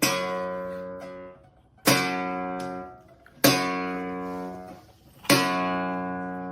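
Guitar chords strummed four times, about one every second and a half to two seconds, each left to ring out and fade.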